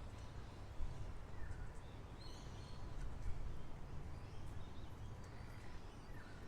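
Wild birds chirping faintly, a few short chirps and trills scattered through, over a steady low rumble of background noise.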